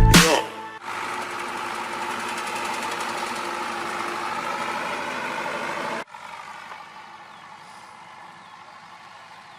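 Zetor 7211 tractor's four-cylinder diesel engine running steadily. About six seconds in, the sound cuts abruptly to a quieter stretch of the same steady engine sound.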